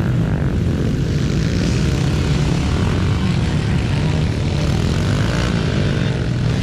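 Several small dirt bike engines running together with a steady buzz, pitches rising and falling as riders work the throttle.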